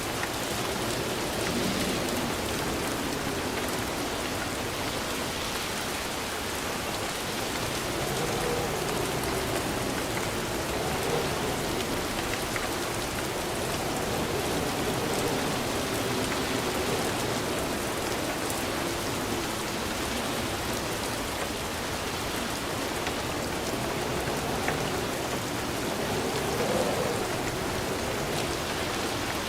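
Steady rain falling, an even hiss of drops with a wavering lower rush beneath it.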